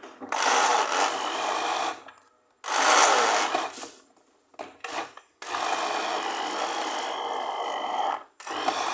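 Electric kitchen blender run in short bursts, about five pulses of steady motor noise with brief stops between them.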